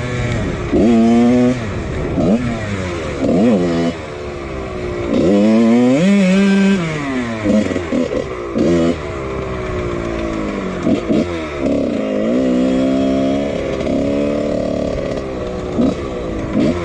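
1999 Husqvarna CR125 two-stroke engine with a Pro Circuit exhaust, revving up and dropping off again and again as the bike is ridden. The throttle holds steadier for a few seconds in the second half.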